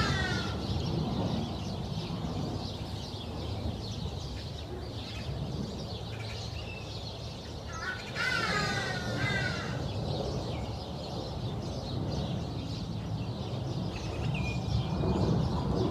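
A bird calling in a quick run of repeated pitched calls about eight seconds in, with the tail of a similar run at the very start, over steady low outdoor background noise.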